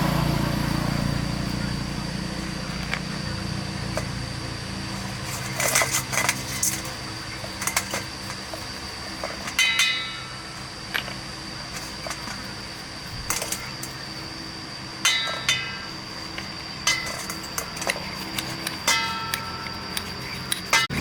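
Metal tools and parts clinking and tapping, with about eight sharp ringing strikes spread through the stretch, over a steady low hum and a faint high whine.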